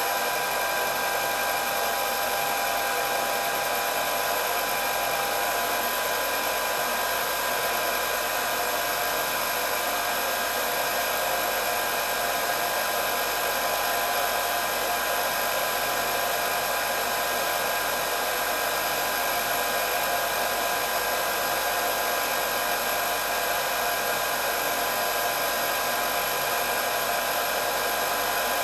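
Hair dryer running steadily: a constant rush of blown air with a fixed motor whine, unchanging throughout.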